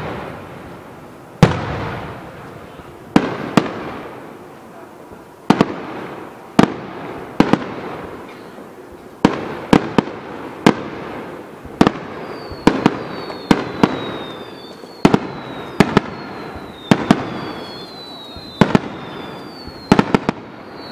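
Aerial firework shells bursting in a steady barrage: sharp bangs about one to two seconds apart, each trailing off in a rolling echo. From about halfway through, short high whistles falling in pitch sound between the bangs.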